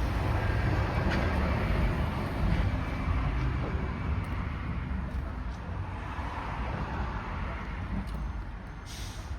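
Class 377 electric multiple unit passing the level crossing: steady low running noise of the train, loudest in the first few seconds and fading toward the end, with a short hiss near the end.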